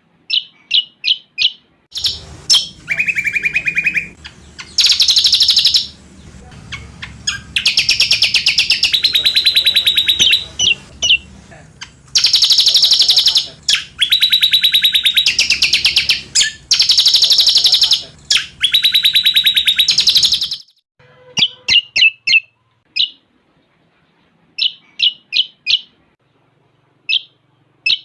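Cucak combok singing a song with cililin phrases worked in. It gives short sharp chips, then several long, very fast high trills from about two seconds in until about twenty seconds in, then goes back to quick chips.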